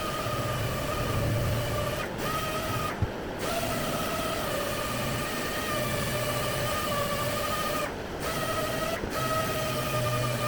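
A small motorised power tool running with a steady whine over a hiss. The sound breaks off briefly a few times and then resumes unchanged.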